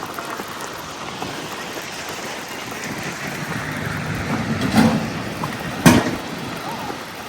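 Snowy city street noise: a steady wet hiss like tyres on slush or rain, swelling as something passes about four seconds in, with a sharp knock about six seconds in.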